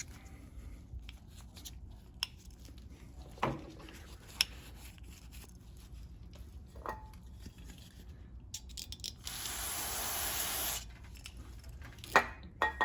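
Small clicks and knocks of carburetor parts being handled, then, about nine seconds in, a hiss of aerosol carburetor cleaner spray lasting about a second and a half.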